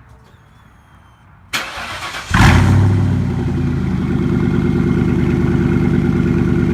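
1999 Ford Mustang GT's stock 4.6-litre two-valve V8 being started: the starter cranks for under a second about a second and a half in, then the engine catches with a brief flare of revs and settles into a steady idle.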